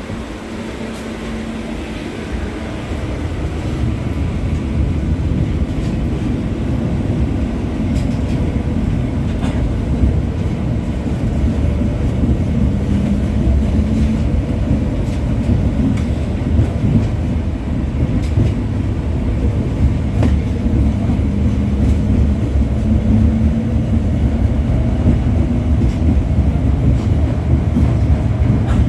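LVS-86K articulated tram running along the street track, heard from inside the car: a steady low rumble of wheels on rails that grows louder over the first few seconds as the tram picks up speed. A low hum comes and goes, with occasional sharp clicks.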